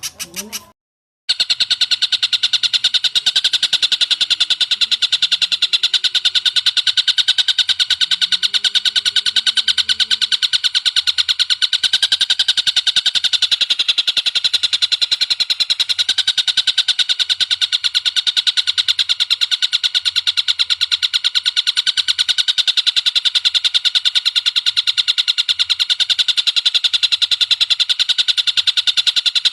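Recorded songbird call: a long, unbroken, very fast rattle of high notes, kept at an even pitch, starting about a second in after a brief break.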